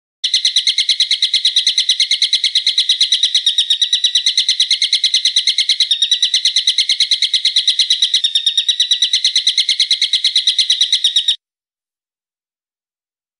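A bird's high-pitched call of identical notes repeated very fast, about eight or nine a second, held steadily for about eleven seconds and then cut off abruptly: a recorded bird call played as a song-tutor (masteran) track.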